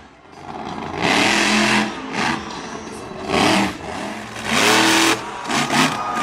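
Monster truck engine revving hard in several short throttle bursts, the pitch climbing and falling with each blast, with quieter dips between them.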